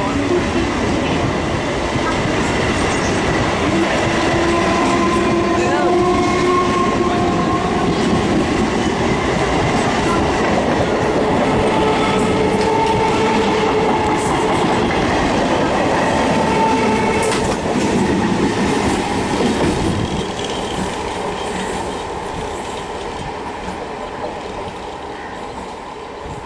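Electric multiple-unit suburban train running past along a station platform, wheels clattering on the rails with sustained squealing tones over the top. The sound eases off about twenty seconds in.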